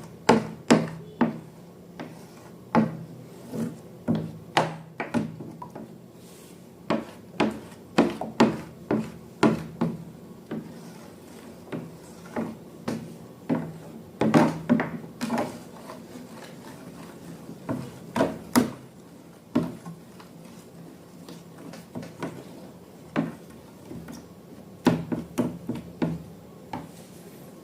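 Irregular taps and knocks, some in quick clusters, as objects are handled and set down on a hard surface, over a faint steady low hum.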